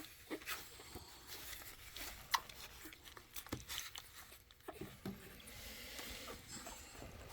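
American Bully puppies suckling at their mother, a scatter of small wet clicks and smacks.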